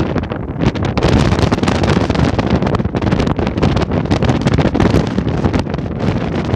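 Strong wind buffeting the microphone: a loud, gusty rumble broken by constant crackling pops.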